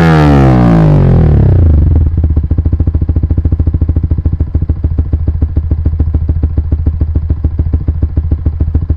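Yamaha R15 VVA's 155 cc single-cylinder engine through an aftermarket R9 Assen exhaust. The revs fall from a blip and settle into a steady, pulsing idle about two seconds in.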